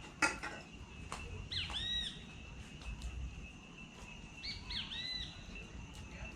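A bird calling twice, each time a short group of arched, slurred notes, about one and a half seconds in and again near five seconds. Under it runs a steady high whine with a few scattered sharp clicks.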